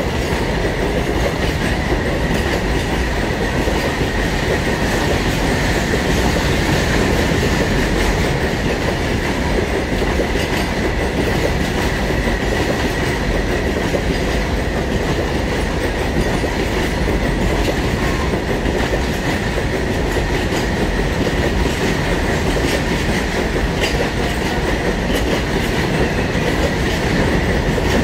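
Indian Railways BCNA covered freight wagons rolling past in a long rake, their wheels rumbling and clattering steadily over the track, with a thin, steady high-pitched ring above the rumble.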